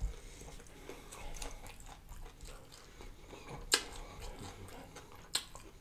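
Close-miked chewing and mouth noises of a person eating, with two sharp clicks, one past the middle and one near the end.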